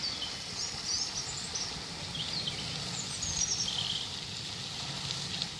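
Small songbirds singing short, high warbling phrases over a steady hiss of running water.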